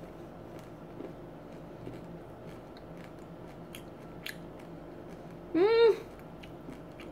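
Chewing a chili nut peanut M&M with the mouth closed: faint crunches of the candy shell and peanut. About five and a half seconds in comes a short hummed 'mm' that rises and falls in pitch.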